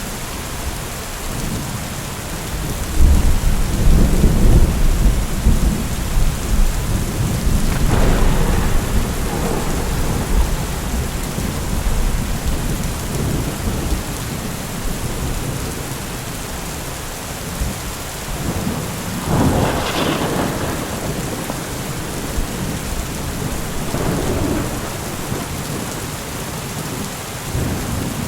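Steady rain pouring during a thunderstorm. A long, low thunder rumble starts a few seconds in and rolls on for about eight seconds. A shorter, sharper peal comes about two-thirds of the way through.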